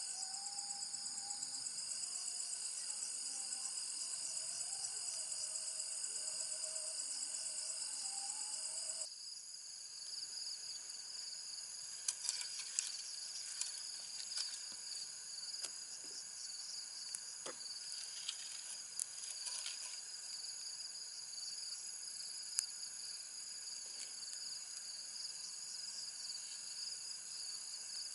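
Steady, high-pitched chorus of rainforest insects such as crickets. A faint wavering lower call runs under it until the sound shifts abruptly about nine seconds in. After that, scattered small clicks and ticks sound over the chorus.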